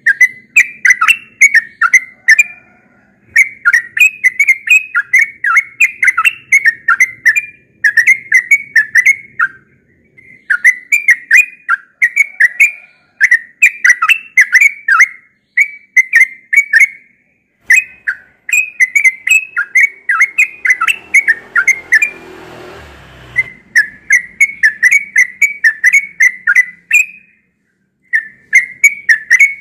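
Yellow-vented bulbul (trucukan) singing: loud, repeated phrases of quick bubbling, whistled notes, each phrase a second or two long with short pauses between. About 21 seconds in, a brief rush of noise comes in under the song.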